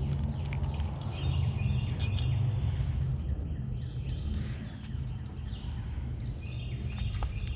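Birds chirping in short high calls over a steady low rumble of noise on the microphone.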